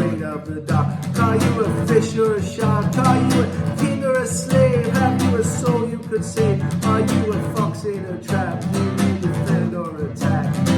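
Instrumental guitar music: a steady run of plucked and strummed guitar, with a melodic lead line moving over the chords.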